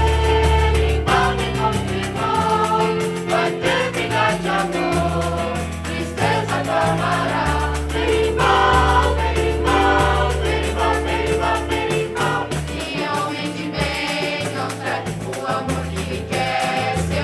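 A choir singing with instrumental backing: held bass notes that change every second or two under the voices, and a steady beat.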